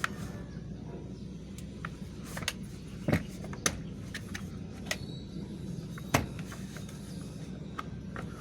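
Steady low rumble of an idling vehicle engine, with about five sharp clicks and knocks of metal handling over it.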